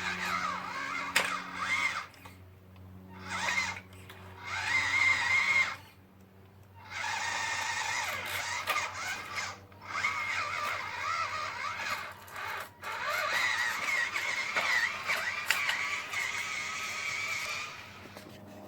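Small RC scale truck's electric motor and metal-geared gearbox whining in bursts as it is driven. The pitch wavers up and down with the throttle, stopping briefly about two, four and six seconds in and again near twelve seconds, over a steady low hum.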